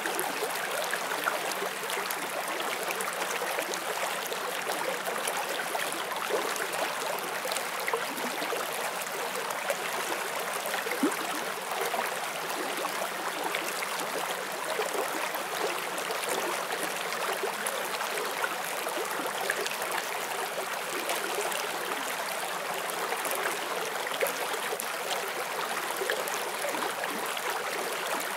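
Small forest stream flowing over rocks: a steady rush of water with many small splashes and gurgles.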